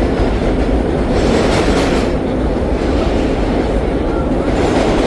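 Vintage subway train running on its tracks, heard from inside the car: a loud, steady rumble of wheels and motors, with a rush of higher hissing noise about a second in and again near the end.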